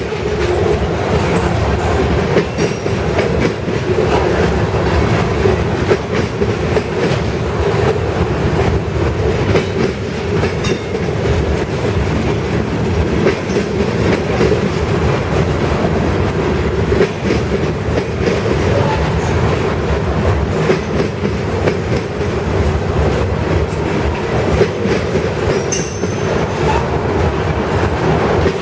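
Freight train cars rolling past at trackside: a steady loud rumble with repeated clicks of wheels over the rail joints, and a brief high wheel squeal near the end.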